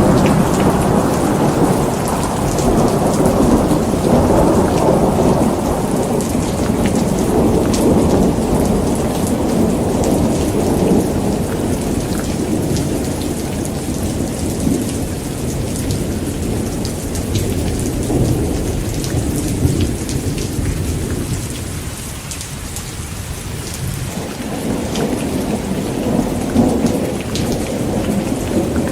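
Heavy rain falling steadily with rolling thunder underneath. The rumble runs through the first half, dies down about two-thirds of the way in, and builds again near the end.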